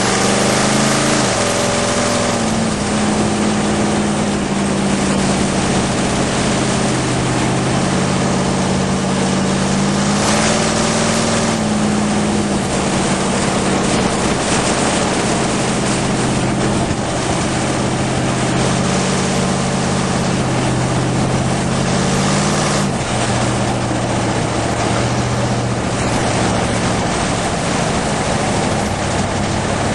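Traditional hot rod's engine and exhaust heard from on board while cruising, a steady engine note under a heavy rush of wind noise. The pitch drops in the first couple of seconds, rises briefly about ten seconds in, and drops again a little past twenty seconds.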